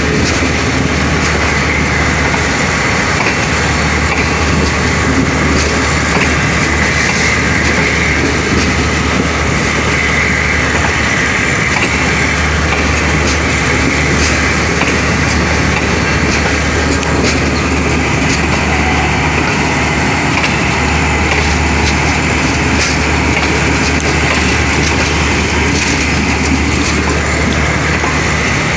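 Pakistan Railways passenger coaches rolling along the track: a steady rumble of steel wheels on rails, with scattered clicks from rail joints.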